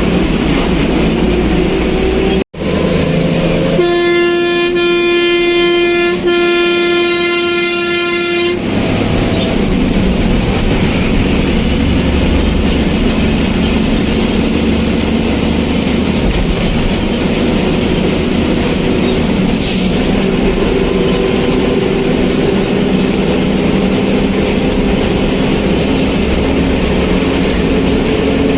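A vehicle horn sounding one long steady blast of about five seconds, starting a few seconds in, over the continuous rumble of a moving vehicle. The rest is steady engine and road noise.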